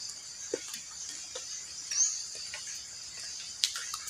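Steady high-pitched insect chorus, like crickets, in a wet forest after rain. A short rising chirp comes about two seconds in, with scattered faint ticks and a sharper click near the end.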